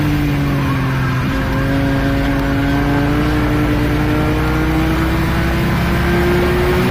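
A car engine heard from inside the cabin, running hard at about 6,000 rpm. Its pitch dips slightly as the driver lifts off, then climbs steadily under full throttle toward about 7,000 rpm.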